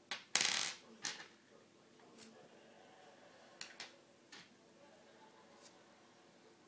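Small metal props handled on a wooden tabletop: a louder clatter about half a second in, a sharp click about a second in, then scattered light ticks as small screws, a nut and a metal cap are picked up and set down.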